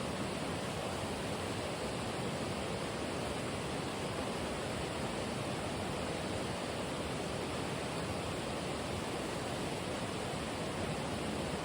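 Steady rush of flowing water, an even, unbroken roar with no rise and fall.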